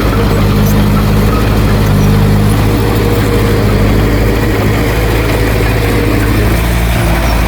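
Diesel engine of heavy earthmoving equipment running steadily, with a low, even drone; the engine note shifts slightly near the end.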